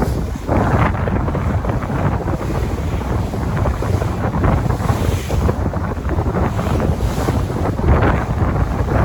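Sea waves washing in, surging every few seconds, with heavy wind buffeting the microphone.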